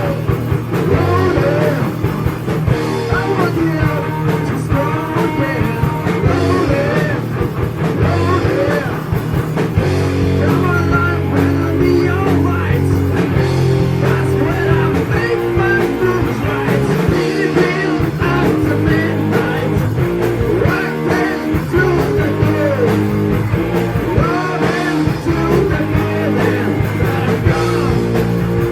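Heavy metal band playing a loud, continuous song with electric guitar and bass.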